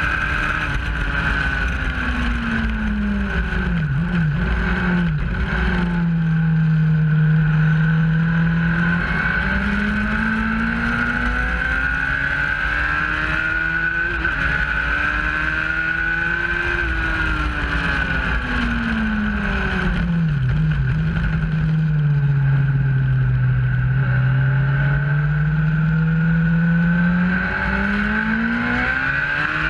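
Motorcycle engine heard from onboard at track speed, its pitch sinking slowly under braking and climbing again under acceleration, with brief dips at gear changes, over steady wind and road noise.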